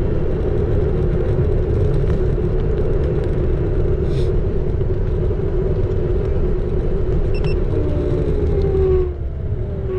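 Xiaomi Electric Scooter 4 Pro riding along: a constant low rumble of wind and road noise with a steady hum over it. Near the end a whine falls in pitch and the sound drops as the scooter slows.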